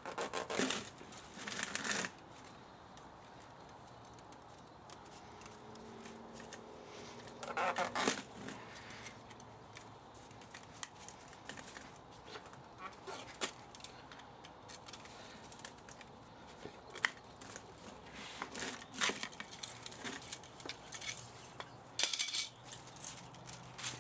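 Intermittent tearing and rasping bursts with scattered small clicks: hand work stripping a scrap electric motor, such as pulling and snipping copper winding wire.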